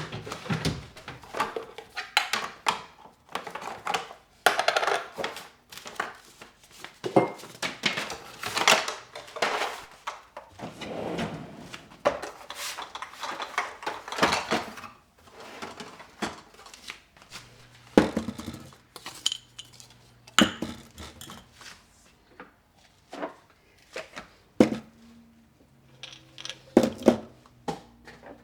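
Dishes and cutlery clinking and clattering as they are handled, dense at first and then thinning to scattered knocks. A low steady hum comes in about halfway through.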